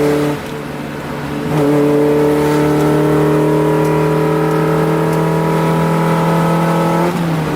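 Honda F22B1 2.2-litre VTEC four-cylinder engine pulling hard at high road speed, around 150 km/h. The note dips briefly about half a second in, then runs steady with a slowly rising pitch, and eases off near the end.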